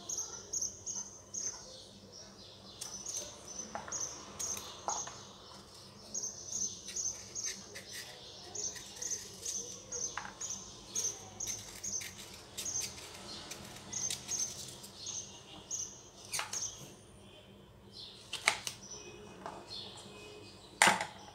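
A small bird chirping over and over in short high notes, about two or three a second, with a few pauses. A few sharp snaps of fresh green beans being broken by hand, the loudest near the end.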